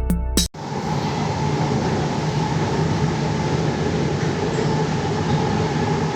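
Bangalore Metro train running: a steady, even rumble and hiss with a low hum underneath. It comes in abruptly about half a second in, after the tail of an intro music sting.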